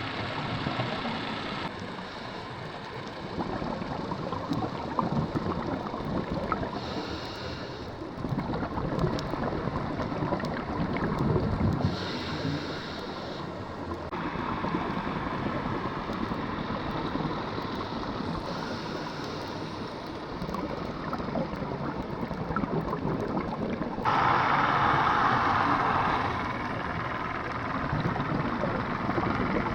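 Wind buffeting the microphone over the wash of sea water. The noise changes abruptly several times and is loudest for a couple of seconds near the end.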